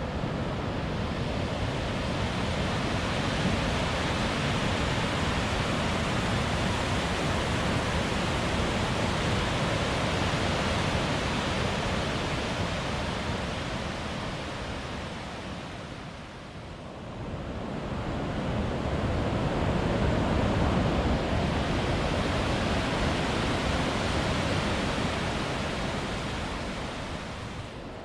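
Rushing water of the Smith River running high near flood stage: a steady, full rush that dips briefly a little past halfway, then comes back.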